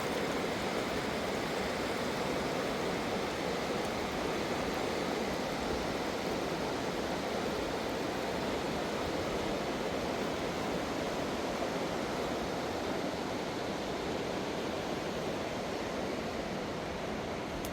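Fast-flowing river water rushing steadily, an even, unbroken noise.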